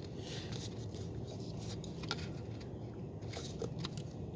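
Scattered small clicks and short crunchy scrapes of hand work on parts under a car, over a steady low hum.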